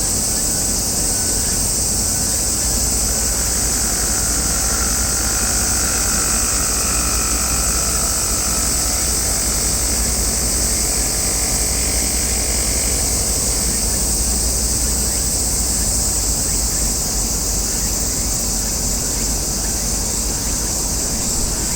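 Steady outdoor noise: a low rumble of wind on the microphone under a steady high hiss, with a faint distant whine for several seconds in the middle.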